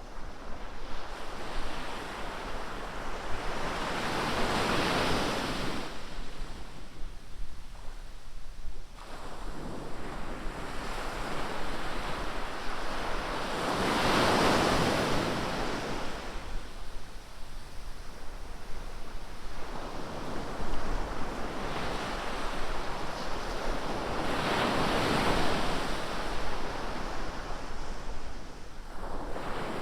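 Ocean surf: waves breaking on the beach and washing back, four swelling rushes of noise that rise and fade over several seconds each.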